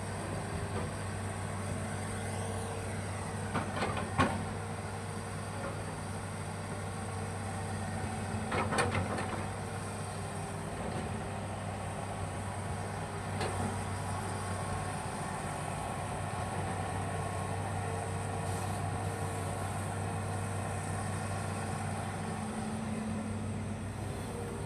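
Hitachi hydraulic excavator's diesel engine running steadily under work, with a few sharp knocks from the machine at work, the loudest about four seconds in.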